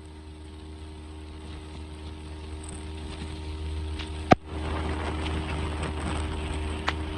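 Boat's outboard motor running steadily under way, with a rush of wind and water that grows louder. A sharp knock comes a little over four seconds in.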